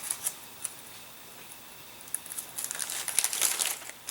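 Handling noise from small model-kit parts: a few light clicks, then about a second and a half of crinkling starting two and a half seconds in.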